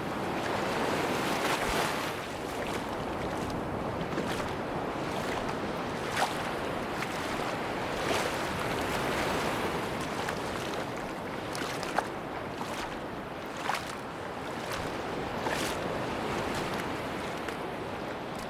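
Sea waves washing onto a beach: a steady surf wash that swells and eases, with a few brief sharp clicks scattered through it.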